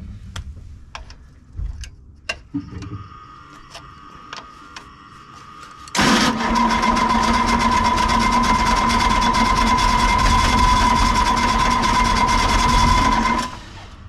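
Diesel excavator engine cranking on its starter for about seven seconds, then stopping, with the number 4 injector line cracked to bleed air from a fuel system that has lost its prime. Before the cranking, a few light clicks and knocks.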